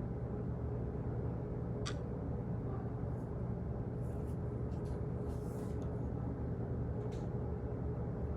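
Office background noise: a steady low machine hum, with a sharp click about two seconds in, a few faint rustles and taps around the middle, and another click near the end.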